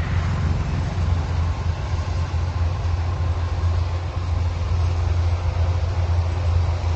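A machine's engine running steadily with a loud, even low hum.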